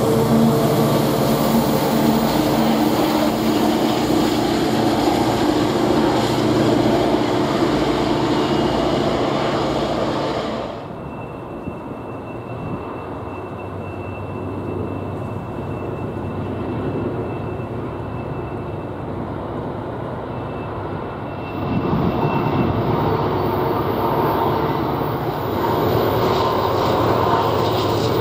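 Diesel-electric freight locomotives running by with a steady engine drone. The sound changes abruptly about eleven seconds in, becoming quieter and losing its treble, and grows louder again about twenty-two seconds in.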